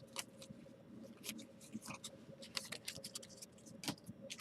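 Baseball trading cards being flipped through by hand: faint, irregular clicks and slides of card stock, with a sharper click near the end.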